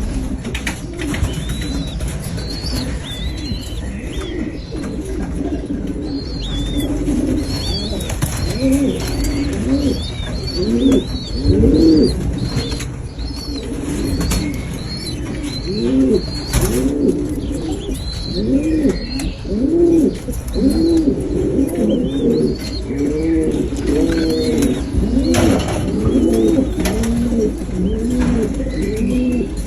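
Several pigeons cooing over and over, their low rounded notes overlapping and growing busier after the first several seconds, with thin high chirps repeating above them.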